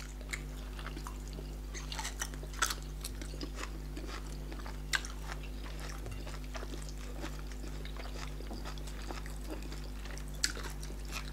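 Close-miked eating: soft chewing and scattered mouth clicks as fufu and tilapia in pepper soup are eaten by hand, over a steady low hum.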